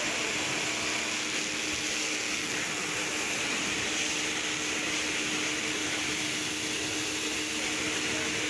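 A machine running steadily: an even hiss with a low hum underneath, unchanging throughout.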